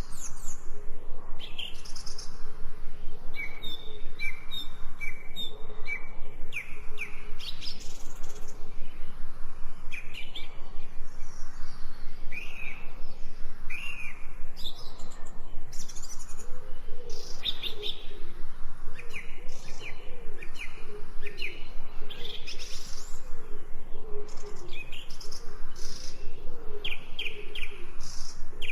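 Several songbirds chirping and singing: short repeated notes, trills and quick rising and falling whistles, over a steady background hiss. A lower, wavering call joins them about halfway through.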